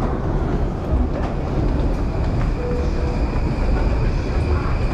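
Steady low rumble of a Yamanote Line electric commuter train at the platform, with a faint steady high whine coming in about two seconds in, over the general noise of a station stairwell.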